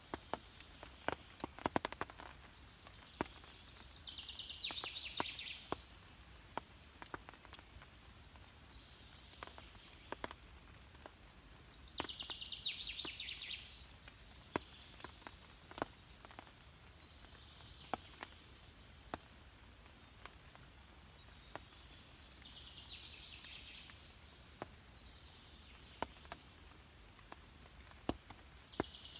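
A songbird singing short, high, repeated phrases every eight to ten seconds, with scattered sharp clicks and snaps between them.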